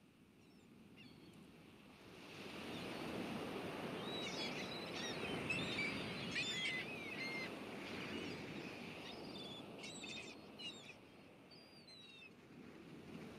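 Small birds chirping and twittering in quick rising and falling notes over a soft rushing noise that swells up about two seconds in.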